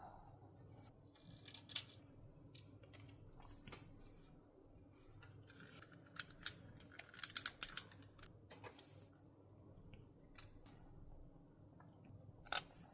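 Scissors cutting paper in short crisp snips: two single snips, then a quick run of about five more about seven seconds in, and one more near the end, over faint handling of paper.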